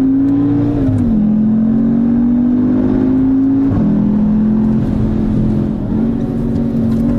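2019 Audi TTS's 2.0-litre turbocharged four-cylinder pulling hard under acceleration, its pitch climbing with the revs and dropping sharply at two quick upshifts of the seven-speed S tronic, about one and four seconds in. Near six seconds the revs jump up briefly as it downshifts after lifting off.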